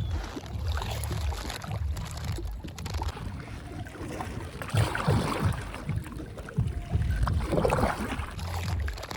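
Kayak paddle strokes dipping and splashing in the water, a few strokes around the middle and near the end, over a low wind rumble on the microphone.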